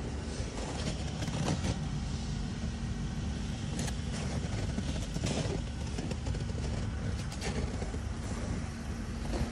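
Car engine idling steadily with a constant low tone, with scattered crunching footsteps in snow.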